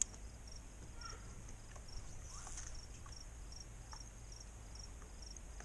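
An insect chirping in a steady, high-pitched, even rhythm of about two chirps a second, over faint low background noise.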